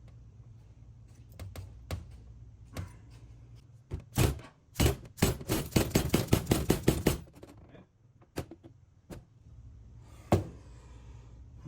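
Hammer blows on a stuck, pressed-in bushing. A few single knocks, then a fast run of about four or five blows a second for some three seconds, then a few more single knocks.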